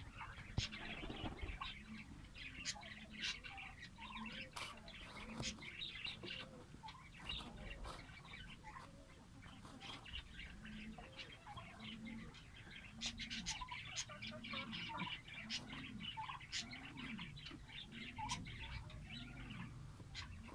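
Lovebirds chirping and chattering in quick, high, overlapping calls, with a low, repeated note about once a second underneath.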